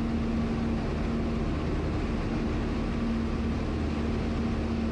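Cessna 172's piston engine and propeller droning steadily in the cockpit, with a constant low hum and a steady tone.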